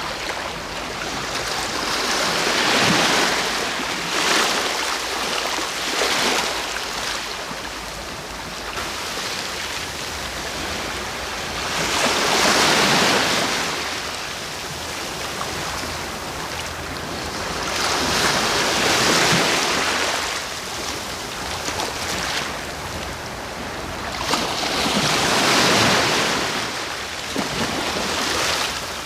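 Sea waves breaking on the shore and washing back, several swells that rise and fade over a couple of seconds each, about one every six seconds, over a steady hiss of surf.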